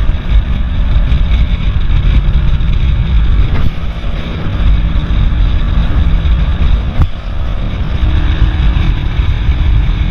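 Loud, steady road noise of vehicle traffic while riding, with a deep, uneven rumble and a couple of brief clicks.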